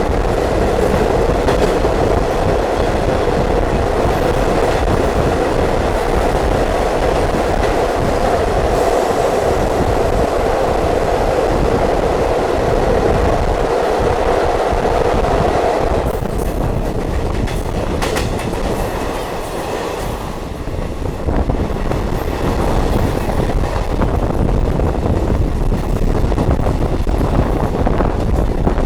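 Indian Railways diesel multiple unit train running along the track, heard from on board: a steady rumble and wheel clatter. A strong hum in the noise drops away a little past halfway, the sound dips briefly, then the running noise carries on.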